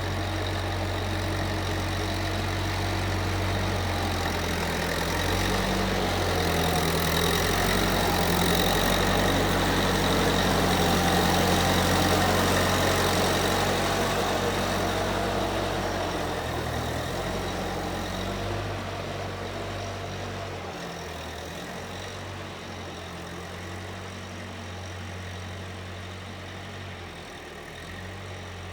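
Case 1530 Uni-Loader skid steer's engine running steadily, growing louder toward the middle and then fading to a lower, quieter running over the last third.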